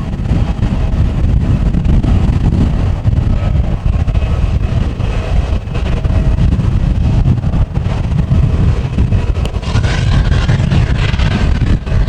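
Strong wind buffeting the microphone, a heavy gusting rumble. Beneath it, the faint steady whine of an airliner's jet engines running during pushback. About ten seconds in, a brighter hiss swells up.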